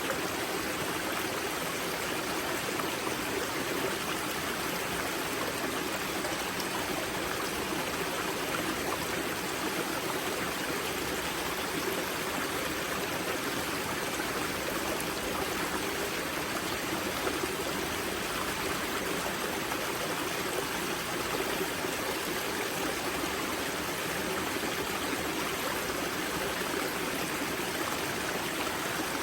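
Mountain river spring (the Grza wellhead) flowing steadily, water rushing and splashing over rocks with an even, unbroken sound.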